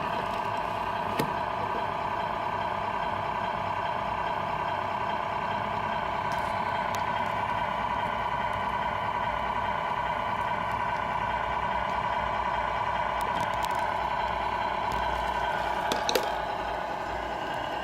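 Radio-controlled Scania R470 model truck running with a steady, even hum. There is a sharp click about a second in and a couple more near the end, after which the hum eases slightly.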